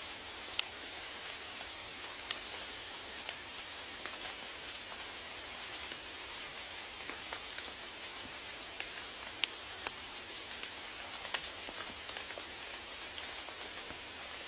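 Steady rain, a soft even hiss with scattered sharper drops ticking irregularly on a surface.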